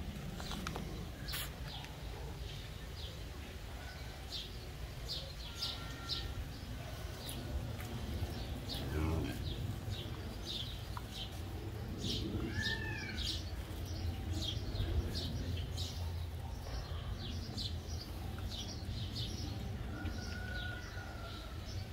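Small birds chirping rapidly and repeatedly, with a few short whistled calls among them, over a steady low rumble.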